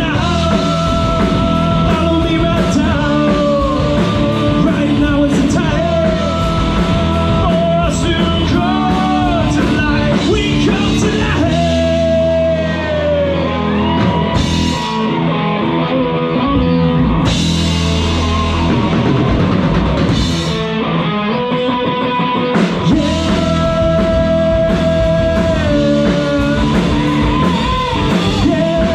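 Rock band playing live, with drums, electric guitar and singing.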